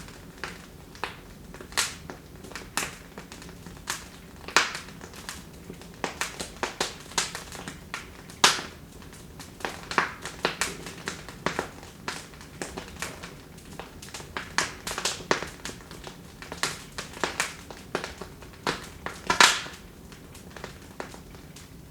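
Wood fire in a fireplace crackling: irregular sharp pops and snaps over a faint hiss, with a few louder pops, the loudest about eight and a half seconds in and again near the end.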